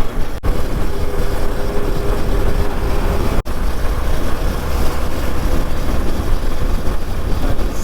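Hero Xpulse motorcycle being ridden, with heavy wind rush and rumble over the microphone and the engine's faint steady hum underneath. The sound cuts out briefly twice, about half a second in and about three and a half seconds in.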